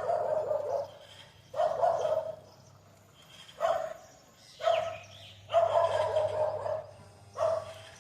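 An animal calling repeatedly: about six harsh, pitched calls, each from half a second to over a second long, with short gaps between them.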